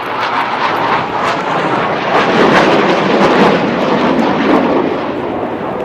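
An airplane flying past, its noise building to a peak about halfway through and then easing off.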